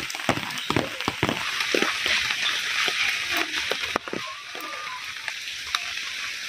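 Rain falling steadily on leaves and tarps, a dense hiss full of sharp drip taps close by. It eases slightly after about four seconds.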